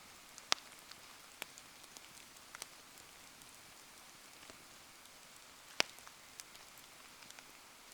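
Wood bonfire burning in the rain: a steady soft hiss of rain with scattered sharp crackles and pops, the two loudest about half a second in and near six seconds.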